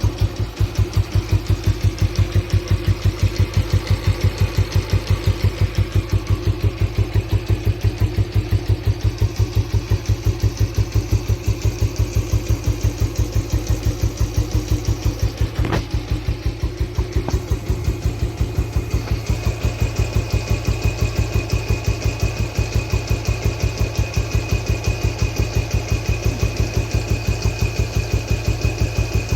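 1964 Royal Enfield Bullet 350's single-cylinder four-stroke engine idling with a slow, even beat of about four thumps a second. A single sharp click comes about sixteen seconds in, and a faint high whistle joins the idle for the last third.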